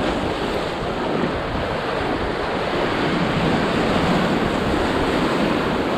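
Class 3 whitewater rapid on the Arkansas River, a steady loud rush of churning water, with wind buffeting the microphone.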